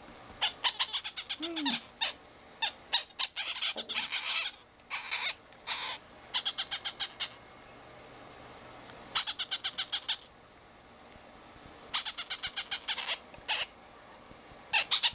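Hand-fed blue-fronted Amazon parrot chicks calling in short bursts of rapid, high, pulsed chirps, several times with pauses between: the chattering calls of nestling parrots.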